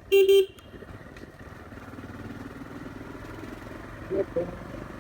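A vehicle horn beeps once, short and loud, then a motorcycle engine runs with a low steady hum that grows a little louder. Two brief tonal blips come about four seconds in.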